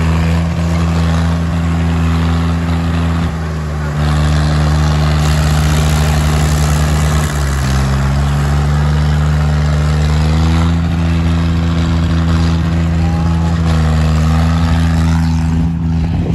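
Diesel tractor engines running hard under load in a tug of war, the engine note dipping about seven seconds in and climbing back a few seconds later.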